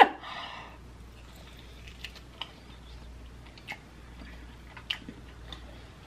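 Close-miked chewing of a barbecue pork rib: a bite into the meat at the start, then irregular soft clicks and smacks of the mouth as she chews with her lips closed.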